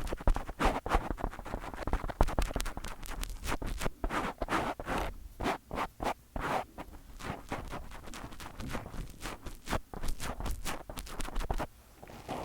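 Fingers scratching, rubbing and tapping directly on a microphone, in a dense, irregular run of short strokes and taps.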